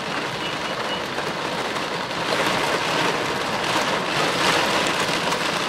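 Heavy wind-driven rain pelting a car's windshield and roof, heard from inside the car, getting louder about two seconds in.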